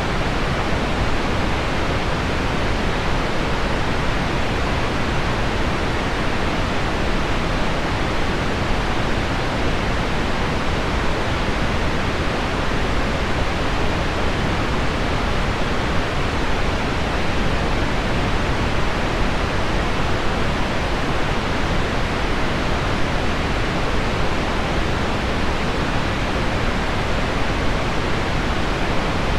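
Steady pink noise mixed with heavy rain on window glass: a dark, even hiss that does not change, with no single drops or other sounds standing out.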